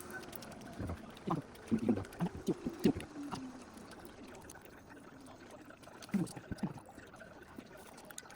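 Liquid pouring and gurgling in short bursts: a cluster from about one to three seconds in, and another around six seconds.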